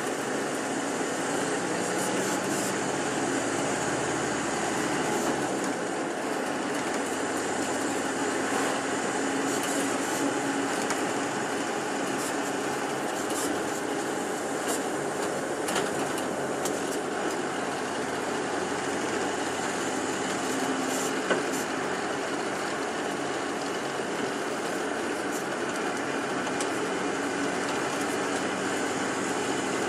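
Tour bus engine and road noise heard from inside the cabin, steady throughout, with a few faint clicks and rattles.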